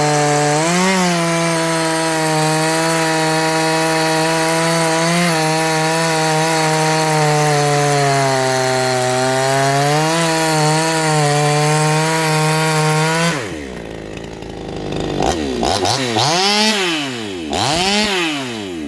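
58cc Chinese two-stroke chainsaw held at a steady high speed through a cut, sagging slightly under load, for about thirteen seconds. It then drops suddenly to a low idle and is revved up and back down twice near the end.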